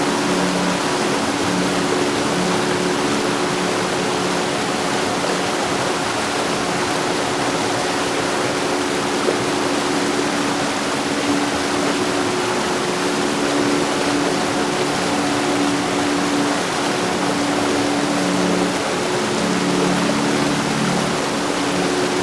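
Heavy rain falling steadily: a dense, even hiss with no thunder, over a faint low hum.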